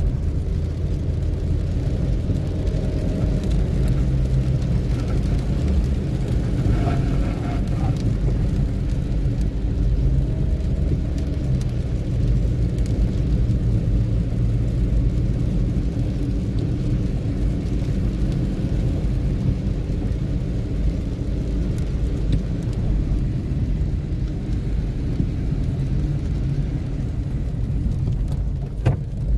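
Car engine and road noise heard from inside the cabin while riding, a steady low rumble.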